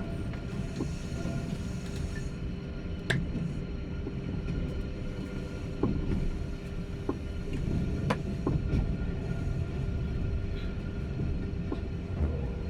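Twilight Express Mizukaze train running: a steady low rumble with scattered sharp clicks and knocks.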